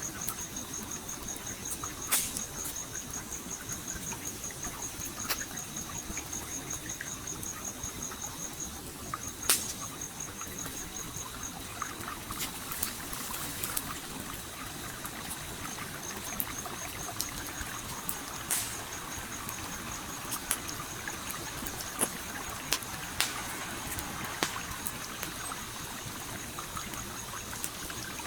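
Campfire crackling with scattered sharp pops over the steady rush of a flowing stream. A high, rapidly pulsing trill runs through most of it and drops out briefly twice.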